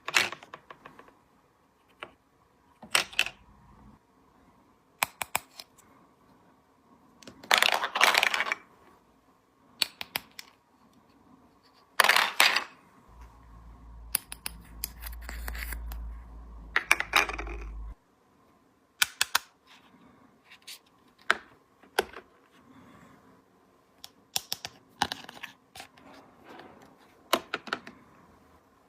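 Small hard plastic toy pieces of a play-house set being handled, clicked together and set down, in irregular clicks and short rustles. A low rumble runs for a few seconds in the middle.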